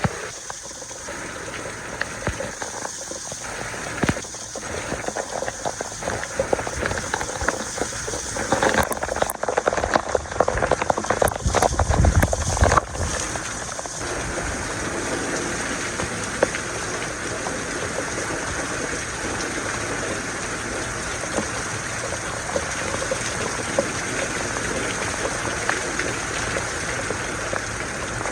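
Steady rain falling and pattering on surfaces, with a louder, deeper rush for a few seconds about a third of the way in before it settles back to an even downpour.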